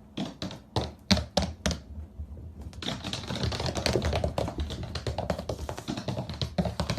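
Rapid, irregular tapping and clicking: a few separate sharp taps at first, then a dense run of clicks from about three seconds in.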